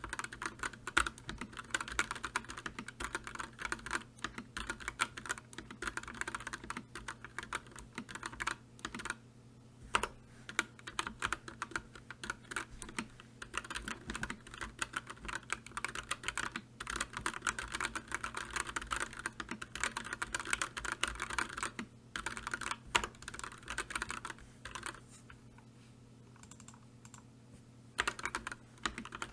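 Continuous typing on a computer keyboard: quick runs of key clicks with brief pauses, and a longer lull about three-quarters of the way through before the typing resumes.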